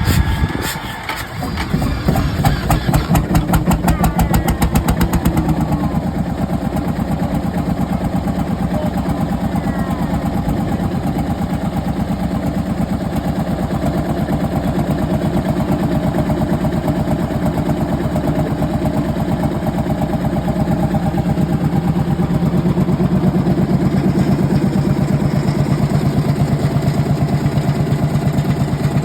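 Marshall 18/30 tractor's single-cylinder two-stroke diesel catching about a second and a half in. It fires quickly at first, then slows over a few seconds to a steady idle of separate, evenly spaced beats.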